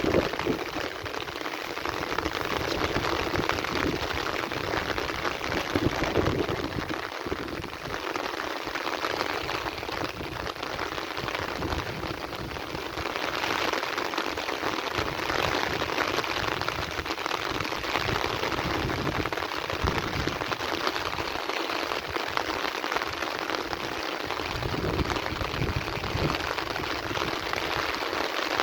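Heavy rain falling steadily, an even wash of rain noise with no distinct thunderclap.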